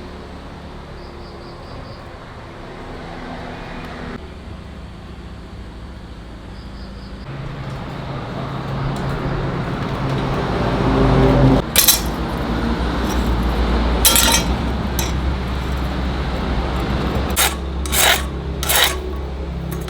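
Metalworking in a workshop: a motor hums steadily while a rasping, grinding noise builds. About twelve seconds in come a handful of sharp metal clanks, the loudest sounds, three of them close together near the end.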